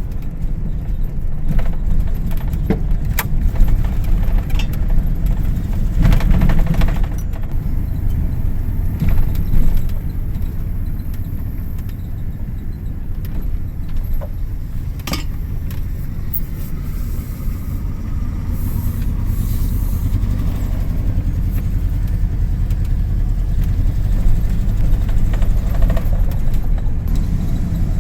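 Ford F-150 pickup driving, its engine running steadily under load with small rattles and clicks from the truck. The throttle is reluctant to respond under load, the sign of the truck's fuel-delivery problem.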